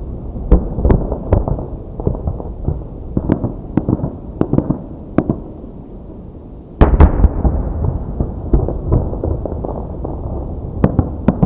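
Aerial fireworks display: a string of sharp shell bursts and cracks over a continuous rolling rumble. About seven seconds in, a single heavy boom, followed by dense rumbling, then a quick run of crackling reports near the end.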